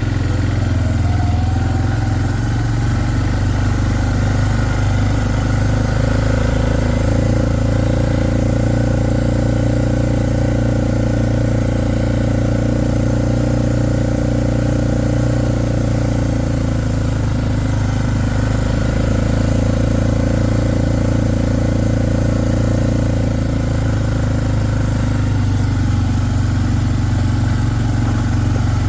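A small vehicle engine running steadily, with a brief rise in engine speed about a second in.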